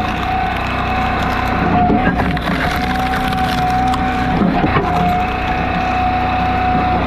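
Log splitter running with a steady whine, while a round of firewood creaks and splinters apart under the wedge.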